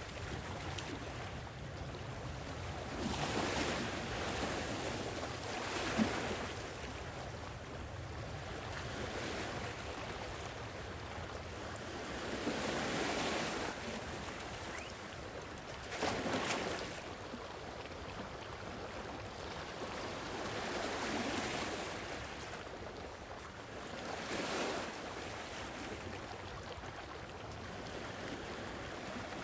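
Sea waves washing onto a shore, swelling and falling back every few seconds over a low steady rumble of surf. A brief sharp tick sounds about six seconds in.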